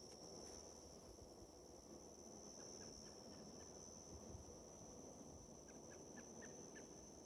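Faint night chorus of summer insects, a steady high-pitched drone, with a handful of short, high chirps coming in the second half.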